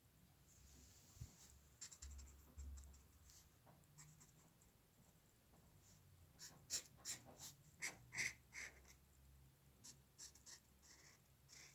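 Faint scratching of a drawing tool on paper during hand-drawing: a quick run of about eight short strokes in the middle, with lighter scattered strokes before and after.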